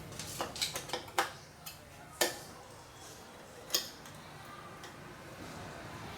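Irregular sharp clicks and taps of small hard objects knocking, a cluster in the first second and a half, then single louder ones about two seconds in and near four seconds.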